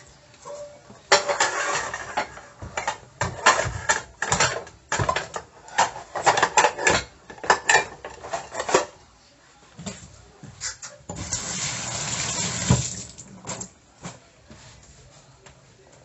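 Dishes and utensils clattering and clinking in a sink as they are washed, with water splashing. About eleven seconds in, the tap runs in a steady stream for about two seconds.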